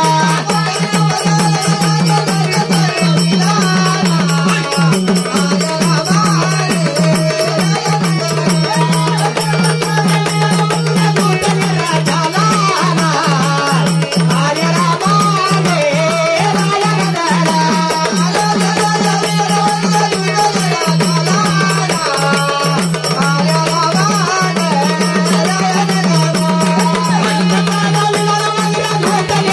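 Gondhal folk music: a steady low drone under a wavering melody line, with fast, continuous drumming.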